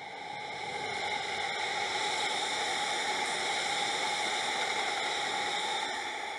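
Electric commuter train passing at speed close by, its wheels on the rails making a steady rushing noise. The noise swells over the first second and starts to fade near the end.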